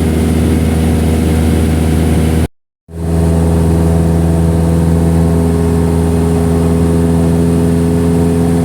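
Single-engine light aircraft's piston engine running at a steady cruise drone. The sound drops out completely for about half a second, some two and a half seconds in, then comes back at the same pitch.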